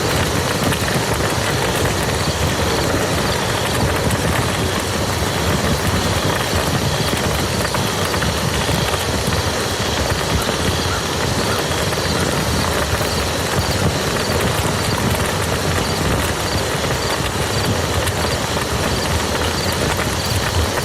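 Steady rain falling on a muddy field: a dense, unbroken patter of drops hitting wet mud.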